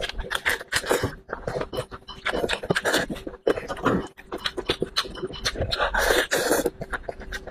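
Close-miked chewing and lip smacking of a man eating sheep's head meat, a dense run of irregular wet smacks and clicks.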